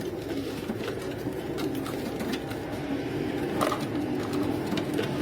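Homing pigeons cooing in a loft, a steady low warbling, with scattered light clicks and taps among them.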